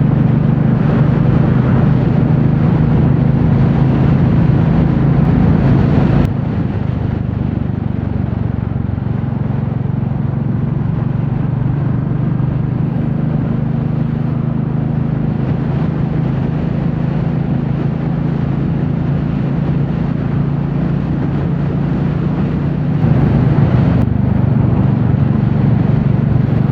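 Royal Enfield Classic 350's single-cylinder engine running steadily as the motorcycle is ridden on the road, with road and wind noise. The sound drops abruptly about six seconds in and picks up again near the end.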